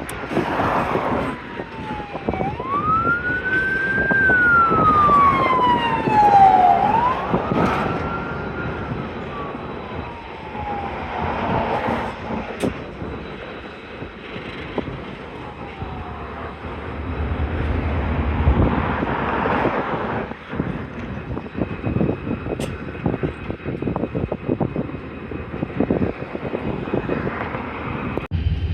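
An emergency vehicle's siren wails, rising and falling slowly twice before fading out about halfway through, over a steady background rumble.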